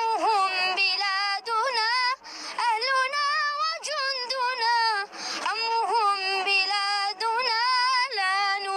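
A single high, young-sounding voice singing an Arabic national anthem solo, holding long notes with vibrato and taking short breaths between phrases, about two and five seconds in.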